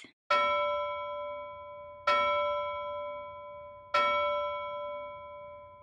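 A bell chime struck three times, about two seconds apart, each stroke ringing out and slowly fading.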